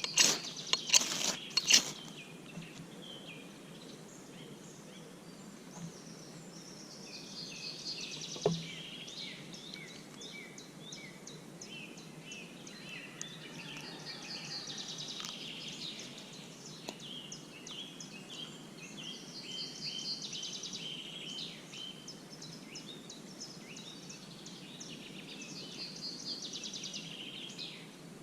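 Birds singing in trilled, chirping phrases. A few sharp clinks in the first two seconds and a single knock about eight seconds in.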